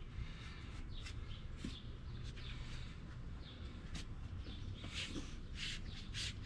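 Small birds chirping in short repeated calls over a steady low hum.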